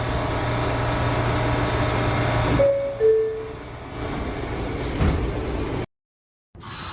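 New York City subway train standing in the station with a steady low hum, then its two-note door chime, falling in pitch, sounds about three seconds in, followed by a knock as the doors close. The sound cuts out abruptly near the end.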